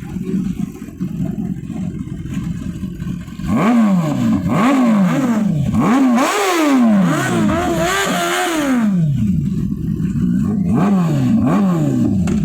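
Superbike engine running at a steady low rumble, then revved hard over and over from about three and a half seconds in, each blip rising and falling in pitch. It eases back to lighter, quicker revs near the end.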